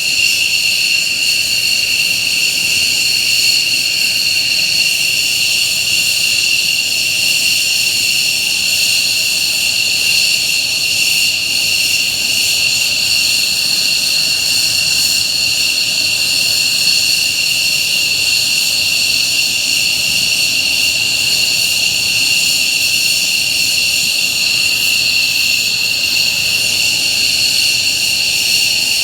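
Mitsubishi F-15J fighter's twin Pratt & Whitney F100 turbofan engines running steadily, a loud high whine over a rushing noise.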